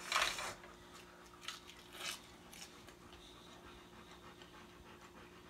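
A person eating a bite of roast chicken skin: a short rustle as it is pulled off, then quiet chewing with a few faint mouth clicks. A faint steady hum sits underneath.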